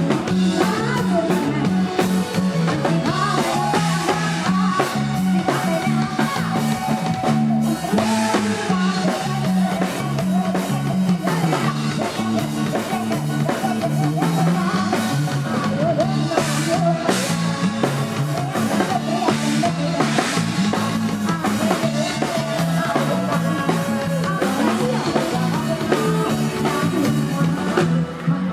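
Live band music with drum kit, electric bass and guitar playing continuously with a steady beat, likely an instrumental passage.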